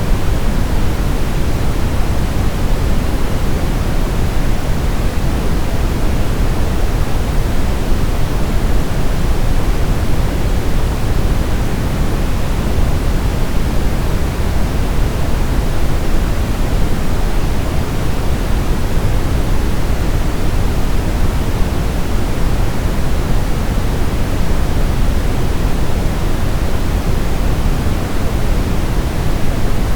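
Steady brown noise: an even, deep rushing hiss, heaviest in the bass and falling off toward the treble, with no change or events.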